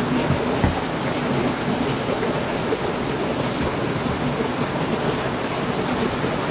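Heavy rain falling steadily, a dense even hiss of drops on surfaces, with one short low thump less than a second in.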